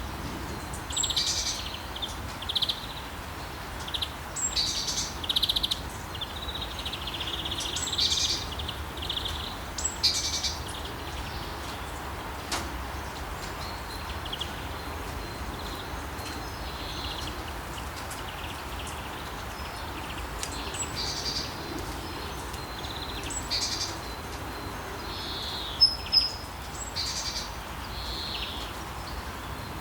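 Birds chirping in short high calls every second or two over a steady background hiss, with a few sharper chirps near the end.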